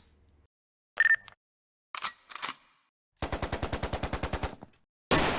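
Gunfire sound effect samples: a couple of sharp metallic clicks, then a rapid machine-gun burst of about a second and a half, then a single loud gunshot near the end that rings on.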